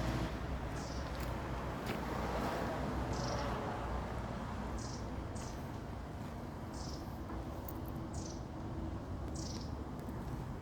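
Short high chirps from an animal, falling in pitch and repeated about once a second, over a steady low rumble.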